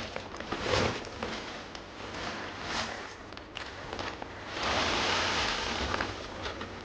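Rustling and handling noises, typical of a bundle of freshly pulled groundnut plants being moved about, with a longer rustle about five seconds in.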